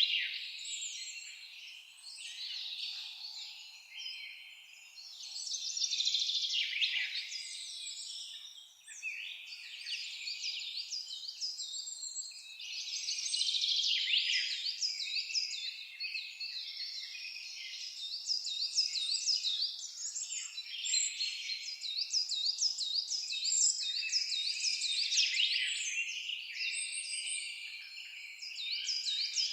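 A chorus of songbirds singing and chirping, many calls overlapping, with a fast series of repeated whistled notes through the second half.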